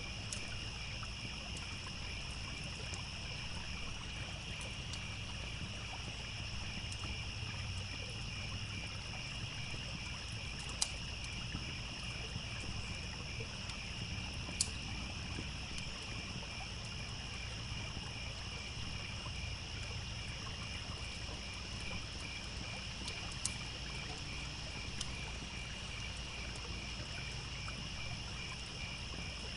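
Crickets chirping steadily over the low, even rush of a stream, with the occasional sharp pop of a crackling campfire, a few of them standing out in the middle and near the end.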